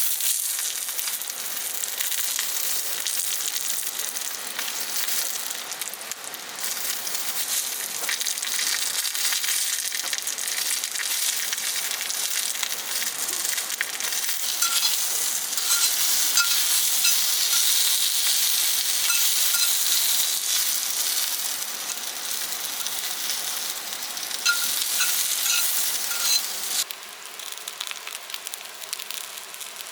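Food sizzling and crackling as it fries in a hot pan, louder from about halfway through and cutting off near the end.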